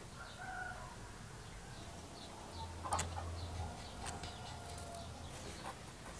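Bird calls in the background, short pitched calls with a longer drawn-out one in the second half. There is a sharp snip of small scissors cutting thread about three seconds in, and another click about a second later.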